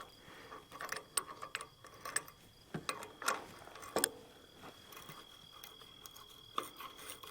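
Irregular metallic clicks and clinks of a hand wrench turning a bolt into place. They come several a second in the first four seconds and grow sparser after.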